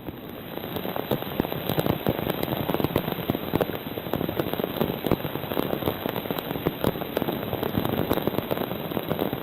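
Rain falling, with many close drops hitting a hard surface near the microphone in a dense crackle; it grows heavier about a second in.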